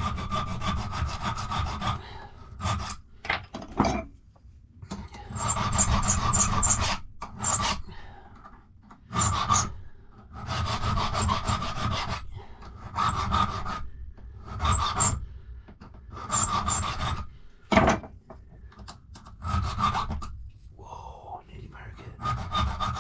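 Hand file rasping across a metal lever-lock key blank held in a vice, in runs of strokes broken by short pauses. The key's cuts are being filed down by hand because the key machine cut them slightly high.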